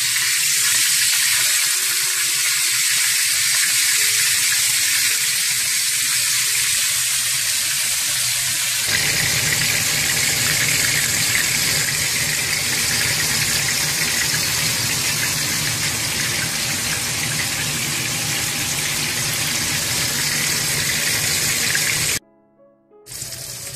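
Chapli kebabs sizzling as they shallow-fry in hot oil in a frying pan, a steady hiss that grows fuller about nine seconds in. The sound drops out for about a second near the end.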